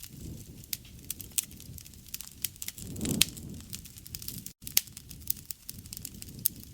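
Wood fire crackling: irregular sharp pops and snaps over a low, steady rush of flames, with a louder flare-up about three seconds in. The sound breaks off for a split second a little past the middle.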